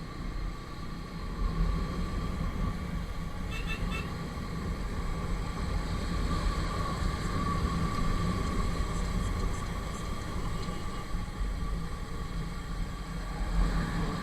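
Motorcycle running on the move through traffic, under a steady low rumble of wind and road noise.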